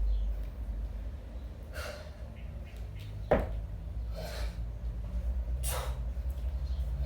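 Heavy, forceful breaths of a kettlebell lifter under exertion, three sharp exhalations spaced a second or two apart, with one sharp knock about three seconds in over a steady low hum.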